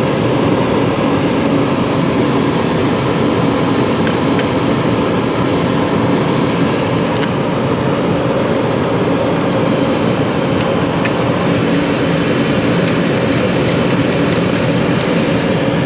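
Steady hum inside the cabin of a 2006 Lincoln Town Car with the climate-control fan running on AC, plus a few light clicks.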